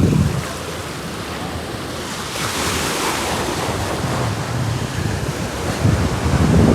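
Sea waves breaking and washing up the beach, a broad hiss of surf that swells about two seconds in, with wind buffeting the microphone in low rumbling gusts near the start and again near the end.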